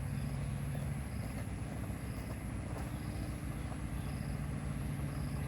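A small engine running steadily with a low hum, while a faint short high pip repeats about once a second.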